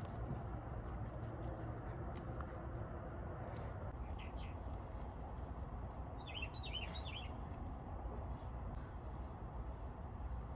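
A small bird chirping: a couple of short high notes about four seconds in, then a quick run of chirps around six to seven seconds in, over a steady low outdoor rumble.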